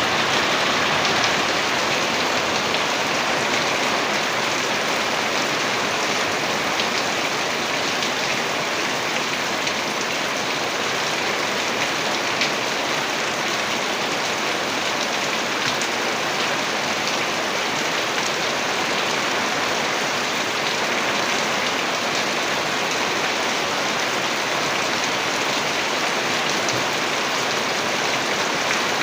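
Heavy rain falling steadily, a dense even hiss with scattered drops striking a surface.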